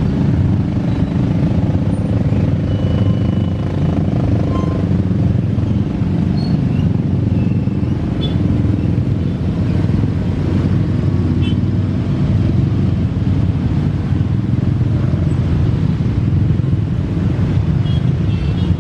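Steady low rumble of engines running, unbroken throughout.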